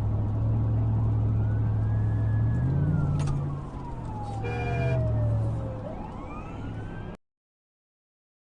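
Car engine running steadily while an emergency-vehicle siren wails, its pitch rising slowly, falling over several seconds, then climbing again. A short beep sounds about four and a half seconds in, and all sound cuts off abruptly about seven seconds in.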